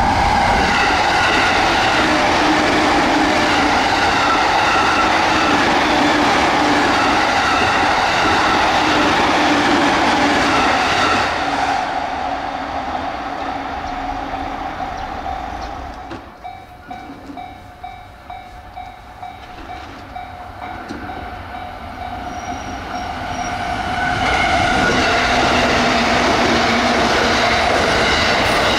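JR East electric train running at speed on rails: a loud, steady rush of running noise with wheel and motor tones. About halfway through it falls much quieter and a run of regular clicks from wheels over the rails comes through, then it swells back to full loudness near the end.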